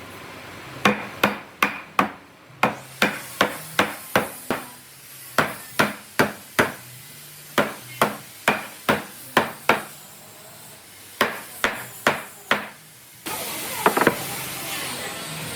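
Hammer blows in quick runs of four to six strikes, about two to three a second, with short pauses between the runs. Near the end a steady hiss comes in, with a couple more strikes over it.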